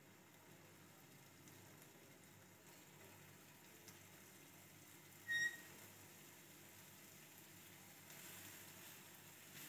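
Faint sizzling of bacon-wrapped pork frying in a pan, growing louder about eight seconds in as more pieces go into the pan. A short high beep sounds once about five seconds in.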